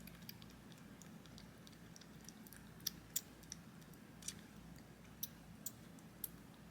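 Newborn kitten suckling on a formula bottle's nipple: faint, irregular little sharp clicks and smacks, about ten of them, the loudest in the middle.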